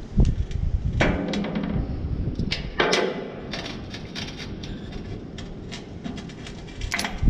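Clicks, knocks and scrapes of tools and parts being handled, with a few longer scraping or sliding sounds about a second in and near three seconds.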